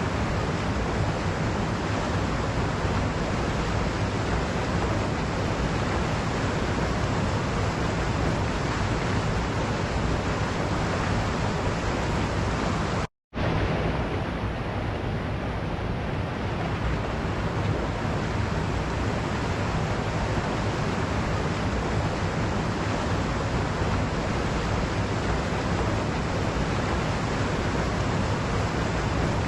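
Steady rushing of a waterfall, an even, unbroken wash of water noise. It cuts out completely for a split second about thirteen seconds in, then resumes.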